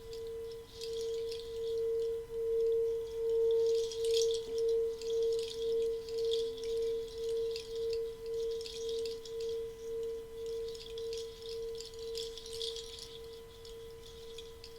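A single sustained ringing tone from a sound-healing instrument. It pulses slowly and evenly, about twice a second, swells over the first few seconds, then gradually fades. Over it comes a soft, intermittent high shimmer.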